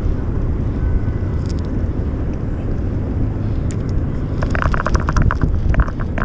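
Steady low outdoor rumble, with a quick run of clicks starting about four and a half seconds in and lasting just over a second.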